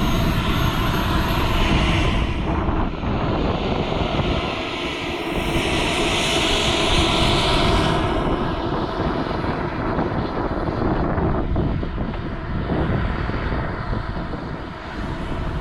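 Radio-controlled model airplane taking off and flying under power, its high-pitched motor noise swelling to a peak about six to eight seconds in. Wind rumbles on the microphone underneath.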